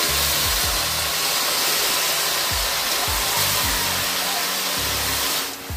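Jujubes (kul) sizzling in a wok over a wood fire, a steady loud hiss that cuts off suddenly near the end.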